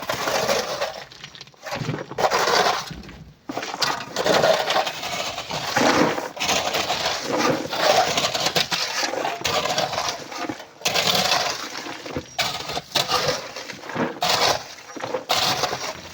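Coral rock and sand being loaded into a truck, with irregular bursts of clattering and crunching.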